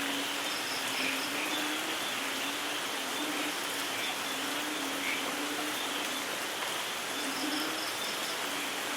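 Steady rain falling, with a low note repeating about once a second underneath and a few faint high chirps.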